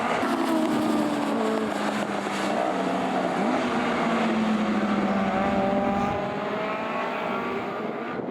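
Several pre-1966 classic touring cars racing past at once, their engines running hard at high revs, the pitches of different cars overlapping and sliding as they go by.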